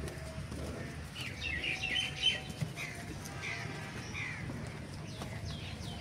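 Small birds chirping: a quick run of chirps about a second in, then single short falling chirps about once a second, over a low steady hum.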